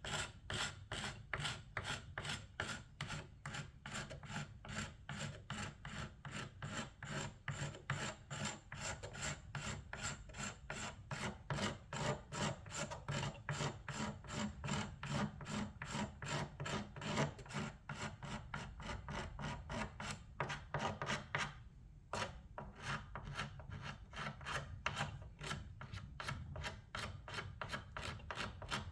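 Old paint and finish being worked off by hand with sandpaper and a scraper: quick, even back-and-forth rubbing strokes, about three a second, with a brief pause a little after two-thirds of the way through.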